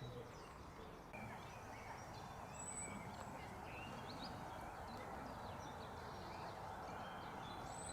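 Scattered short bird chirps and calls over a steady background hiss of the open outdoors.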